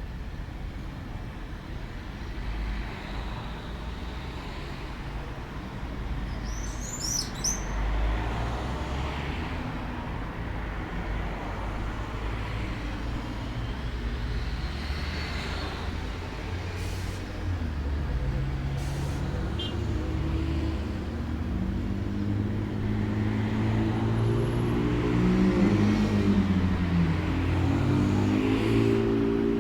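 Outdoor rumble of a motor vehicle engine that grows louder over the second half, its pitch shifting, with a bird's brief chirps about seven seconds in.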